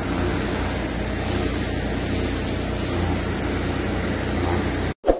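Steady loud machinery noise with a low hum, cutting off abruptly near the end, followed by a brief sharp sound.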